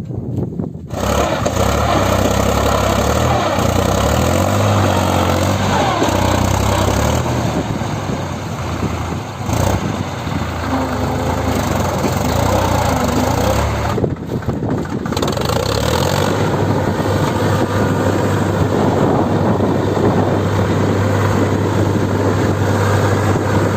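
HMT 5022 tractor's diesel engine running loud and steady as it tries to pull free of the mud with a loaded trolley, with brief dips about ten and fifteen seconds in.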